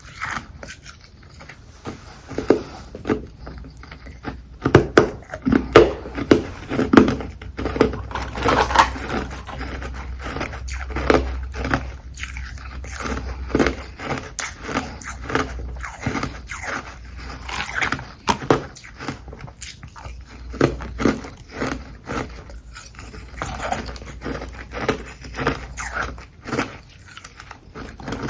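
Close-miked chewing of frozen carbonated ice: rapid crisp crunches in quick succession as the ice is bitten and ground between the teeth.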